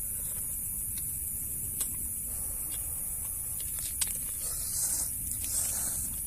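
Steady high-pitched buzz of night insects, with two sharp clicks and some rustling near the end.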